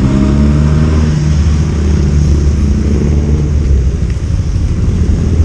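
Motorcycle engine running steadily while under way, with a dense low rumble of wind and road noise beneath it.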